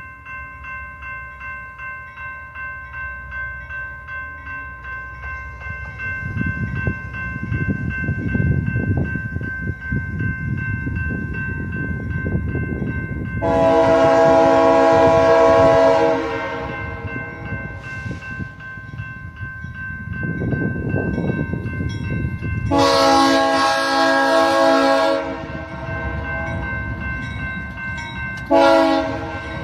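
Union Pacific diesel locomotive sounding its Nathan K3LP five-chime horn in the grade-crossing pattern: two long blasts, then a short one, with the next blast just starting at the end. A bell rings steadily throughout, and the low rumble of the approaching train builds from about six seconds in.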